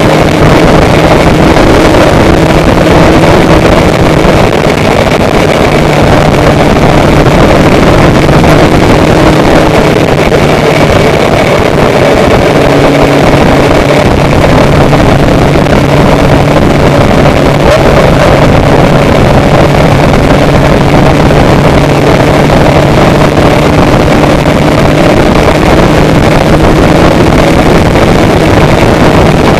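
Loud, steady engine drone with a constant rush of noise over the microphone, holding the same pitch throughout.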